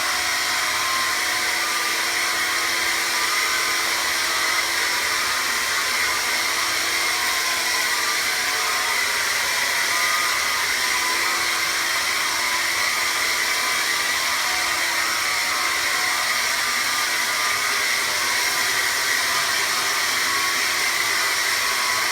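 Vax cordless vacuum cleaner running steadily at full power, a motor whine over the rush of air through the suction, as it vacuums up spilled washing powder.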